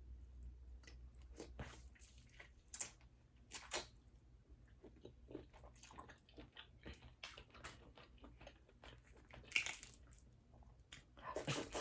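Close-miked chewing and mouth sounds of someone eating boiled crawfish and mussels: a steady run of small wet clicks with a few louder crunches scattered through.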